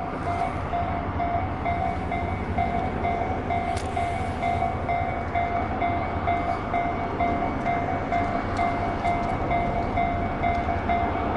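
A train running on the rails with a steady rumble and clatter, and a high electronic tone pulsing on and off throughout.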